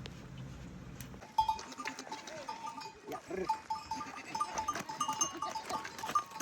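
Livestock bells tinkling in many short, quick rings, with animals bleating now and then; it starts suddenly about a second in.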